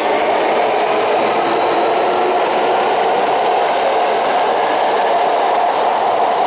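Electric commuter train pulling along an underground station platform, its wheels rumbling steadily on the rails with a faint motor whine that rises in pitch as it gathers speed.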